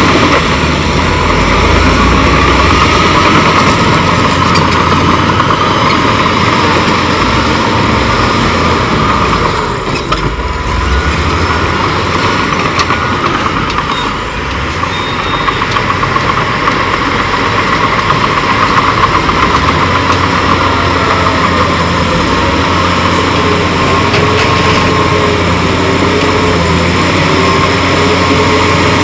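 Diesel engines of heavy earthmoving machinery running steadily at work, with a wavering mechanical whine over the engine noise that dips briefly twice.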